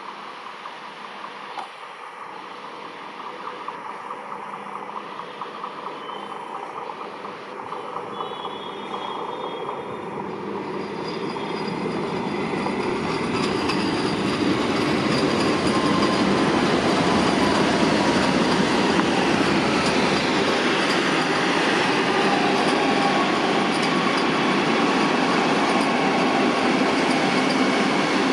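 Vande Bharat Express electric train set rolling slowly over points, growing louder over the first half into a steady rumble of wheels on rail, with faint wheel squeal.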